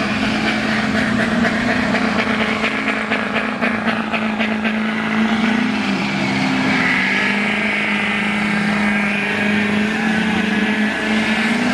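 Car engine held at high revs while a car performs at a street sideshow, its pitch wavering up and down as the throttle is worked.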